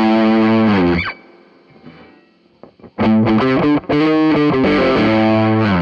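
Overdriven electric guitar, a Gibson SG Special with '57 Classic humbuckers played through an MXR Custom Badass Modified O.D. pedal. A held note slides down and stops about a second in. After a pause of about two seconds with only faint noise, a new riff starts and ends with another slide down.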